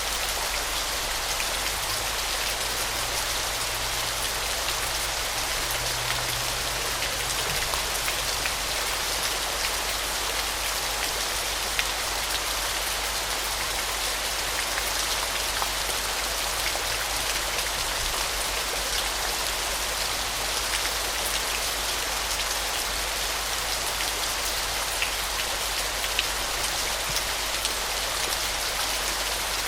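Waterfall: a steady, even rush of falling water with small drips and splashes ticking through it.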